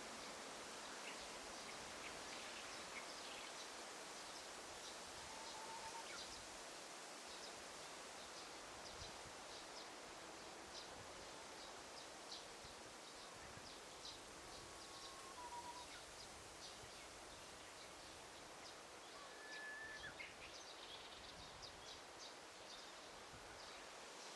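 Faint forest ambience: a steady soft hiss of leaves or air, with distant birds giving many short high chirps and a few brief whistled notes.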